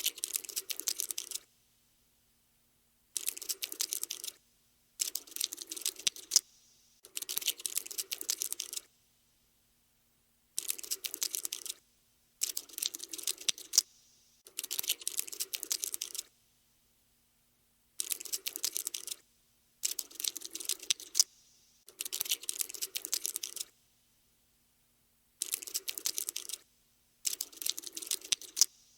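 Cockroach scuttling sound effect: bursts of rapid dry clicking, each a second or two long, with short silent pauses between them, about a dozen times in all.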